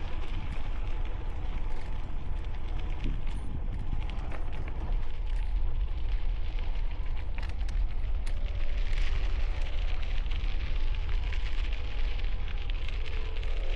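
Wind buffeting a helmet-mounted camera microphone, a constant low rumble, while bicycle tires crackle and crunch steadily over gravel.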